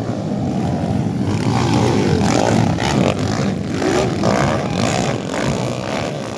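Motocross motorcycle engines revving hard as bikes race past, their pitch rising and falling over and over; the sound builds to its loudest in the middle and then fades.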